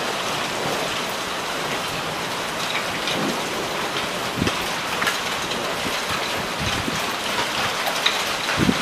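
Heavy rain pouring down in a thunderstorm: a steady hiss of rain with scattered single drops ticking sharply close by.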